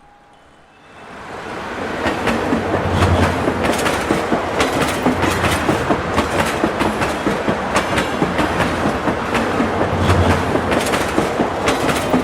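Train running on rails, its wheels clattering over the track in a dense run of sharp clicks. It fades in over the first two seconds, then stays loud and steady.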